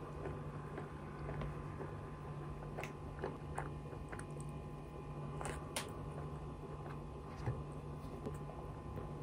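Faint chewing and biting of a soft bread roll, with a few scattered small clicks, over a steady low hum.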